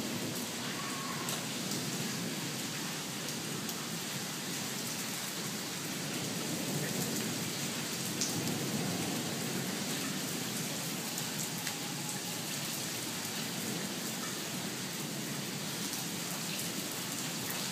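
Steady rain falling on a wet brick-paved courtyard and rooftops: a continuous even hiss, with a few single drops ticking out above it.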